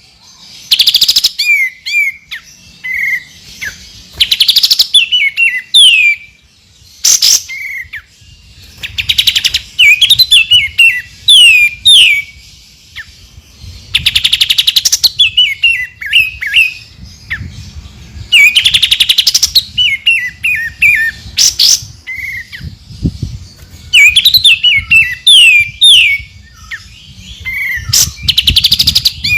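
White-rumped shama (murai batu) singing loud 'tembakan' phrases: a quick run of falling whistles, then a burst of very rapid rattling notes. The phrase repeats every four to five seconds.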